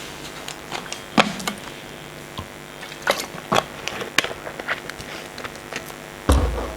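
Scattered sharp taps and clicks, with a heavier low thump near the end.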